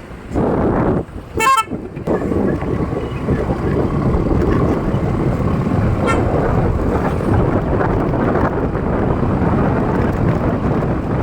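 Steady road and wind noise from a moving vehicle, with a short horn toot about a second and a half in and a fainter toot around six seconds.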